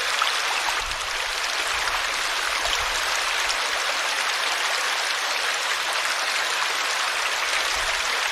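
River water flowing over rocks: a steady, even rush of moving water.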